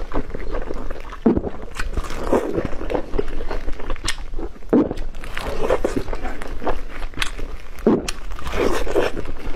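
Close-miked chewing of boiled dumplings: soft chewing sounds in bursts about once a second, with sharp mouth and lip clicks among them.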